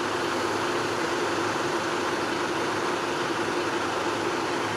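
Class 150 diesel multiple unit idling at a platform, a steady engine drone with a constant low hum.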